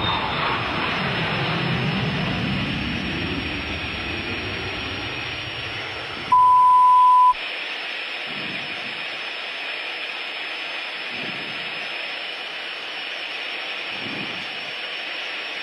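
Steady cockpit noise of a Cessna Citation 525 jet in flight, sliding lower in pitch over the first few seconds. About six seconds in, a single loud, steady, high beep sounds for about a second.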